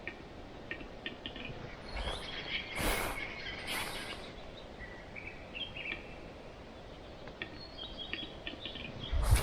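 Forest birds giving short high chirps and calls. A couple of brief rustling noises come about three and four seconds in, and a louder one right at the end.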